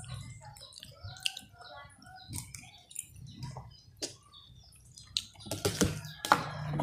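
Faint chirping of small birds: many short, high calls, with a few sharp clicks in the second half.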